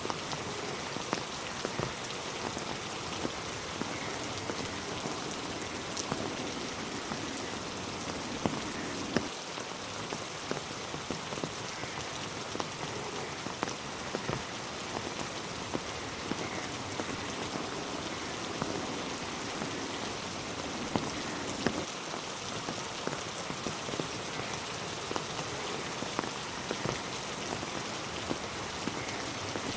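Steady rain falling, with many individual drops tapping sharply close by.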